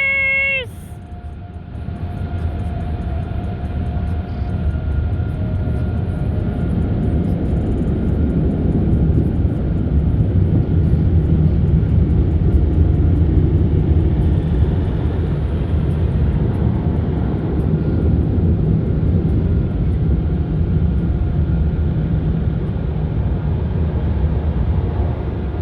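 Automatic car wash machinery running around the car, heard from inside the cabin: a steady low roar that swells through the middle and eases slightly near the end.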